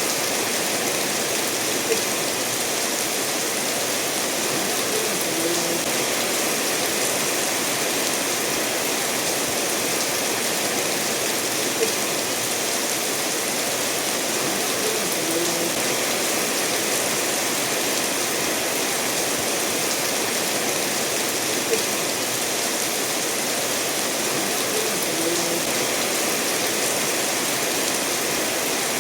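Steady rain falling together with a stream running over stones, an even rushing hiss, with a brief sharp tap about every ten seconds.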